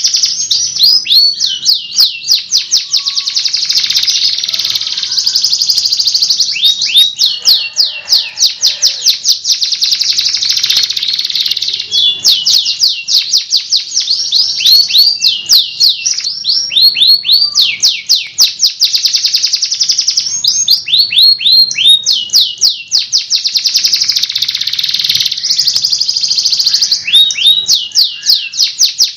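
Domestic canary singing a long, continuous song of fast trills and rapid runs of repeated notes that sweep downward.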